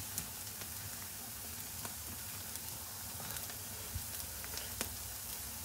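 A slab of bánh chưng (sticky rice cake) pan-frying in oil until crisp: a steady, quiet sizzle with a few small pops and spits.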